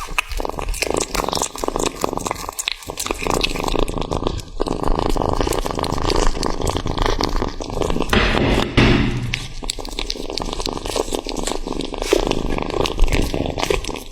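A cat eating close up: continuous chewing and smacking with many quick small clicks.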